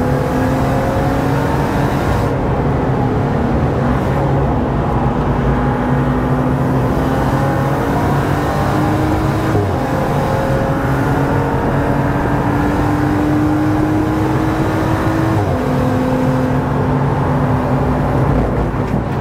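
BMW M135i's turbocharged straight-six heard from inside the cabin under hard acceleration on track, its pitch climbing with the revs and dropping at each gear change, several times.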